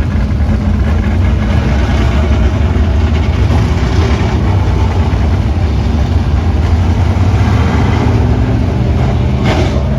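Dirt-track modified race car engine running with a deep, steady note.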